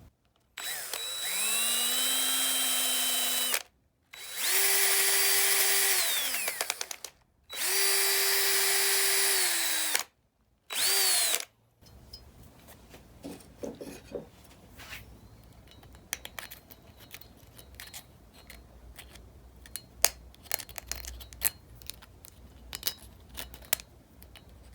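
Electric drill run in four bursts, each spinning up to a steady whine and winding down, while cleaning up a steel engine valve. After that, light clicks and taps of metal parts being handled.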